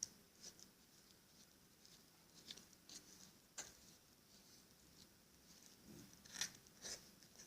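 Slime being mixed and worked by hand, giving faint, scattered sticky clicks and small crackles, with two louder ones near the end.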